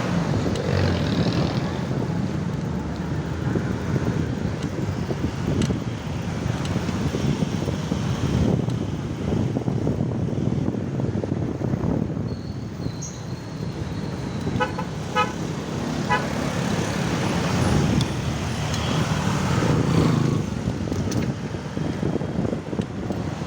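Road traffic noise and wind on the microphone from a moving ride, with several short vehicle-horn toots in quick succession about two-thirds of the way through.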